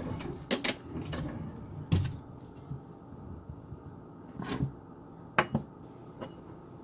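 A few separate sharp clicks and light knocks, about five in all, from a small dish of dissolved laxative mix being checked and handled.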